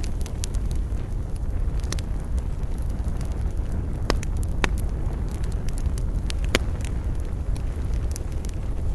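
Campfire burning with a steady low rumble and scattered sharp crackles and pops, a few louder snaps about four and six seconds in.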